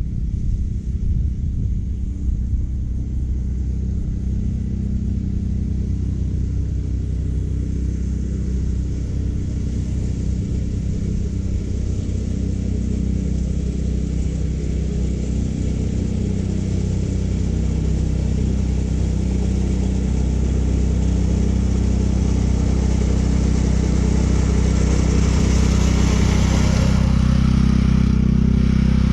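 California Trimmer gas-powered reel mower running steadily as its reel cuts short Bermuda grass. The steady engine hum grows a little louder over the last few seconds.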